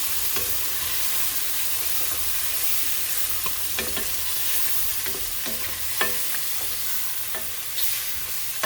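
Chicken in tomato sauce sizzling in a hot pan while it is stirred, with a steady hiss and a few sharp clicks of the utensil knocking against the pan.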